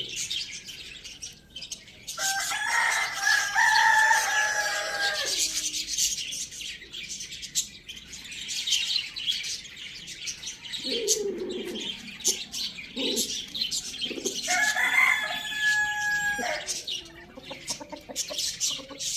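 A rooster crowing twice, about two seconds in and again near the end, with hens clucking in between. Small birds chirp steadily throughout.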